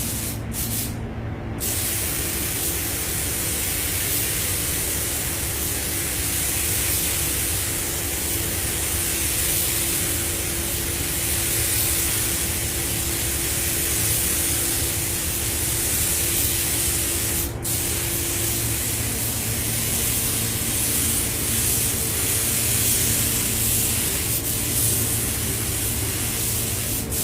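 Paint spray gun hissing as red paint is sprayed onto a car body: a couple of short bursts at first, then a long continuous spray with one brief break about two-thirds of the way through, over a steady low hum.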